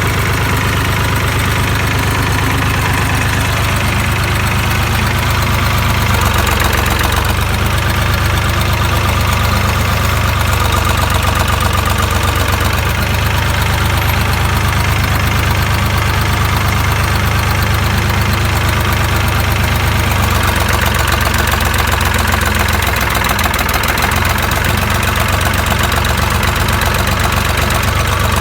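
David Brown three-cylinder diesel engine of a Case 380CK tractor idling steadily, freshly started.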